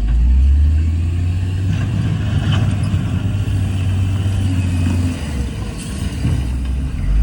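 Heavy diesel engine of earthmoving equipment running with a deep, steady drone that eases off about five seconds in.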